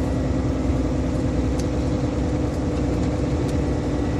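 Heavy semi truck's engine and road noise droning steadily inside the cab, with a steady hum and a few faint ticks.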